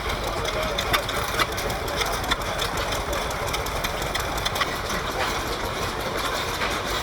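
Vintage stationary engines running steadily, with scattered sharp clicks and knocks over a continuous mechanical din.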